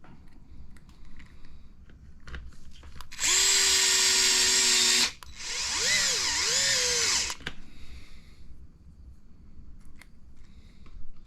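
Electric screwdriver running in two bursts of about two seconds each. The first holds a steady whine; in the second the pitch dips and rises as the motor's speed changes while it drives a small button-head screw. Light clicks of small parts being handled come before and after.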